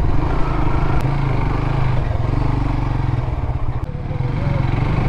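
Motorcycle engine running steadily while riding, with a slight drop in level about four seconds in.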